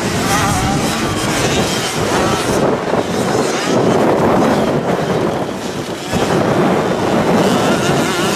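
Motocross bikes racing on a dirt track, engines revving up and down as they pass.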